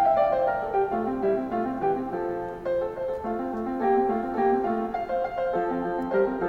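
Background music: a piano playing a gentle melody over a repeating accompaniment.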